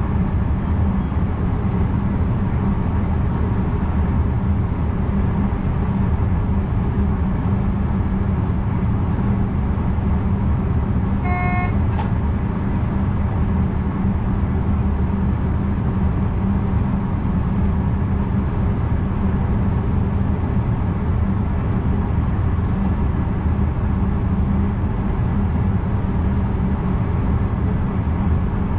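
VIRM double-deck electric train running at speed, a steady rumble of wheels and motors heard in the driver's cab. About eleven seconds in there is one short high-pitched tone.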